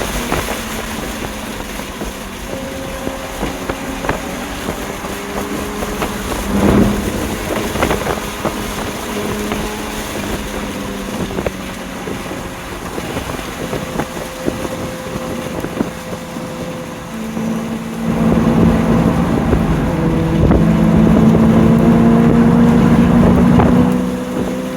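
2020 BMW M2 Competition's twin-turbo inline-six running at part throttle with wind and road noise, with a thump about a quarter of the way in. About three-quarters in it gets louder and pulls hard, its pitch climbing slowly, then eases off just before the end.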